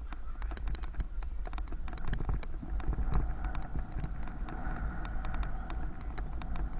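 Bicycle ride: rapid, irregular ticking and rattling with a low wind rumble on the microphone. A faint steady tone comes in about two seconds in and fades near the end.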